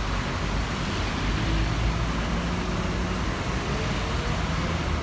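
City tour bus running with steady road and traffic noise and a low engine rumble, heard from aboard.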